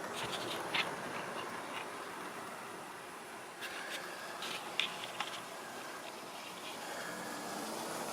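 Model train of Tri-ang or Lima rolling stock running along the track: a steady running rumble with a few light clicks, getting louder near the end as it approaches.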